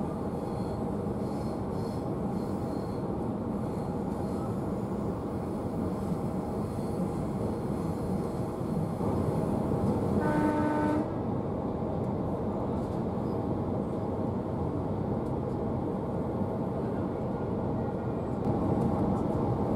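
Electric passenger train running along the line, heard from inside the carriage: a steady rumble of wheels and running gear, with one short horn blast about halfway through.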